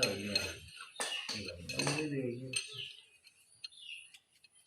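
Light metal clinks and taps of steel engine parts and tools being handled while push rods are fitted to a ZS1115 diesel engine. A low voice murmurs in the background for the first two and a half seconds, then only a few faint ticks remain.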